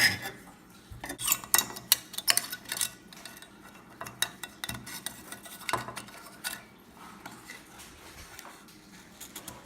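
Aluminum belt-line trim being worked onto its spring clips on a pickup cab: a run of light metallic clicks and taps, thickest about a second in, then scattered.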